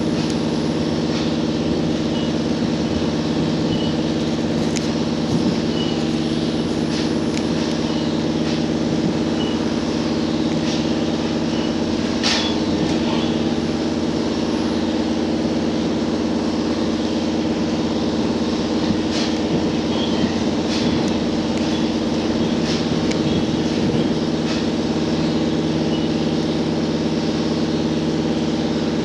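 Cabin sound of a JR Hokkaido H100 diesel-electric railcar under way: its diesel engine and generator give a steady, even hum. A few sharp clicks from the wheels on the rails break in, the clearest about twelve seconds in.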